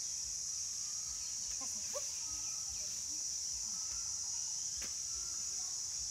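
Steady, high-pitched drone of insects, with a few faint voices and a single light click about five seconds in.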